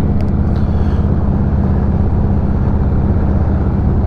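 Motorcycle engines running steadily at cruising speed in a group ride, a nearby rider's bike heard over the recording bike's own engine.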